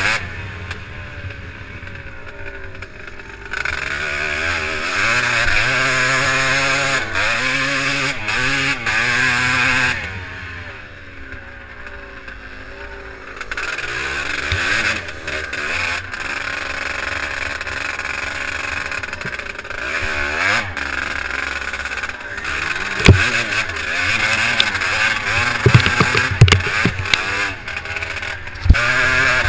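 Twin-shock motocross bike's engine being ridden hard, revving up and dropping back again and again through the gears. Near the end there are several sharp knocks.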